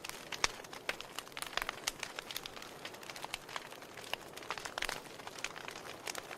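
Wood fire crackling in a fireplace: irregular sharp pops and snaps of burning logs over a soft steady hiss of flame.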